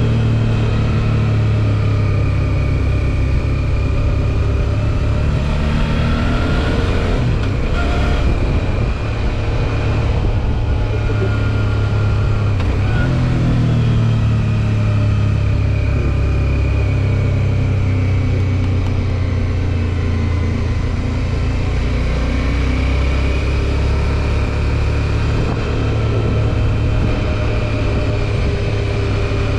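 Suzuki V-Strom 650 XT's 645 cc V-twin engine running under way, its pitch rising and falling a few times with the throttle.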